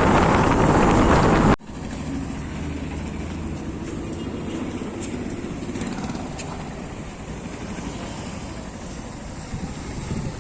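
Loud wind rushing over the microphone on a moving two-wheeler, cut off abruptly about a second and a half in. Then a quieter steady rumble of vehicle and road noise.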